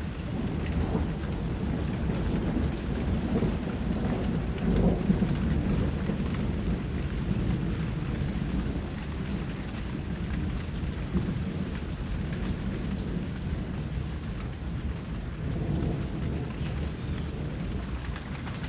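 Steady rain with thunder rumbling low, swelling a few seconds in and again near the end.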